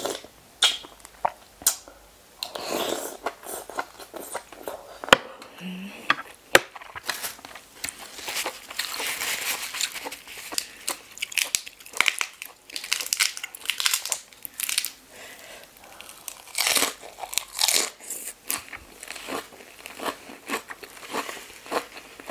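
Close-up eating sounds: a razor clam slurped from its shell and chewed with wet mouth noises, then crisp, crunchy chewing of a lettuce leaf, the crunching densest in the middle of the stretch.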